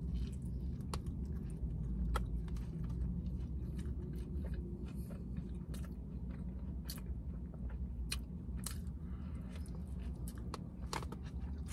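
A person biting into and chewing a falafel pita wrap close to the microphone, with scattered crunches and wet mouth smacks. A steady low hum sits underneath.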